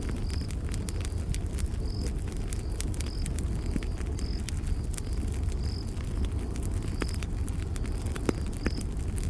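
Campfire crackling: many sharp pops and snaps over a steady low rumble of burning wood, with two louder pops near the end. A cricket chirps in short high notes about once or twice a second.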